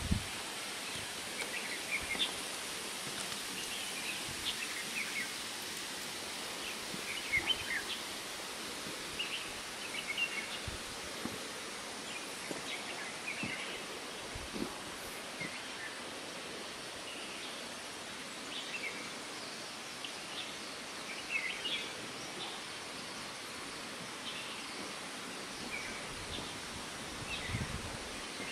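Outdoor ambience: a steady background hiss with scattered short bird chirps throughout, and a few faint low knocks.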